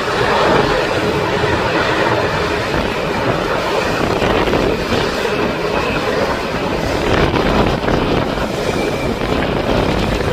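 Jet engines of a Boeing 787 Dreamliner (Rolls-Royce Trent 1000s) running at high power: a loud, steady roar with a thin whine held over it.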